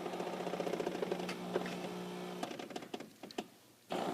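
Miele coffee machine running in its pre-brewing stage: a steady hum with fast, even rattling, then a few clicks and a drop to near quiet for about a second before it starts up again.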